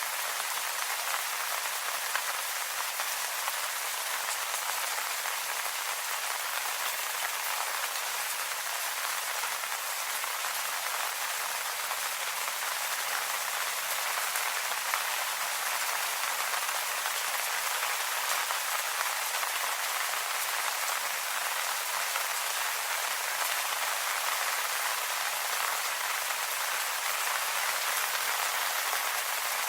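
Steady rain falling on leaves, a dense even patter of drops with no pause or change.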